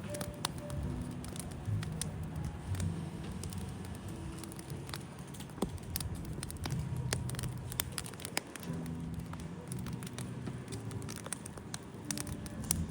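Wood fire burning, crackling with many sharp, irregular pops and snaps.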